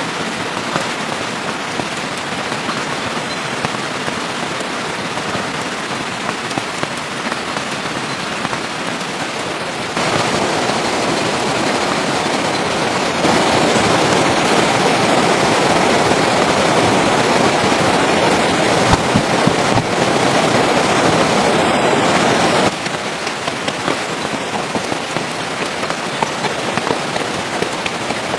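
Steady rain falling, an even hiss that grows louder about ten seconds in, louder again a few seconds later, and drops back near the end.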